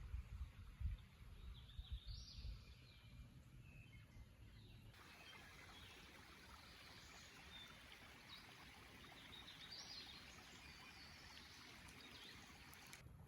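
Faint woodland ambience: a soft even hiss with a few short, high bird calls now and then. There are a few soft low thumps in the first second, and the background changes abruptly about five seconds in.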